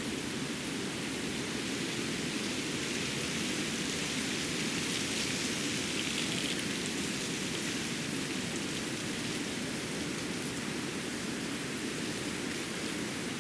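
Winter forest ambience after fresh snowfall: a steady rushing hiss that swells slightly about halfway through, with a few faint ticks around the middle.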